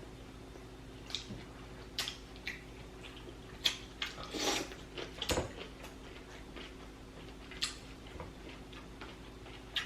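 Close-up eating sounds of someone working through a seafood boil: scattered wet mouth smacks and clicks, with a short rustling burst and a sharp knock around the middle.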